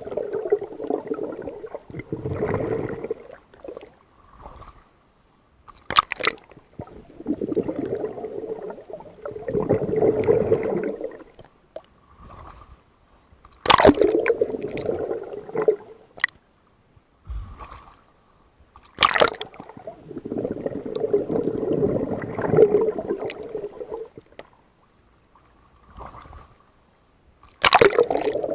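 Water gurgling and bubbling in bursts of a few seconds, about every six to eight seconds, each burst starting with a sharp splash or crack.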